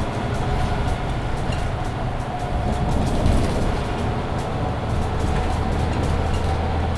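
Mercedes-Benz Citaro C2 Hybrid city bus driving, its diesel engine and drivetrain making a steady low drone with a faint whine above it; the drone grows stronger about five seconds in.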